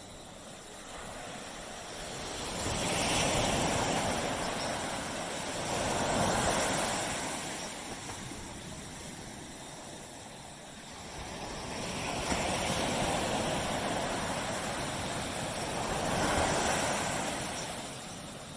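Surf on a tropical beach: waves breaking and washing in. Two long surges build over a few seconds and then fade.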